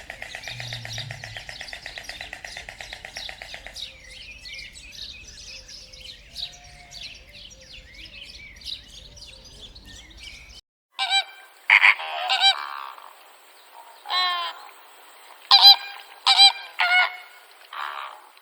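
A fast buzzing trill for the first few seconds, then fainter scattered chirps. After a cut, a series of about seven loud, harsh honking bird calls.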